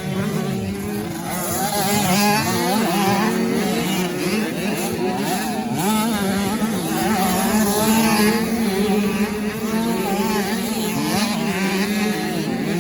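Several 85 cc two-stroke motocross bikes racing. Their engines rev up and down over one another, with pitches rising and falling throughout.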